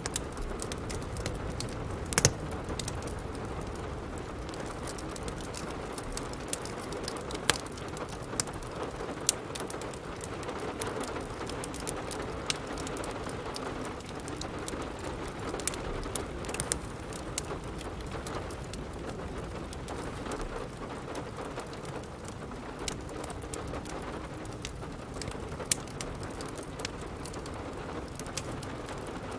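Steady rain mixed with a wood fire crackling in a fireplace, with sharp pops at irregular intervals, the loudest about two seconds in.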